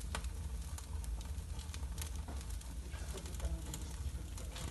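Wood fire crackling in a brick fireplace: irregular sharp pops and snaps over a steady low rumble.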